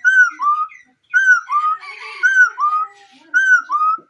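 A yij bird, a hunter's bird, calling in a steady series of paired whistled notes, each note a short falling-then-hooking whistle. The pairs come about once a second, four times.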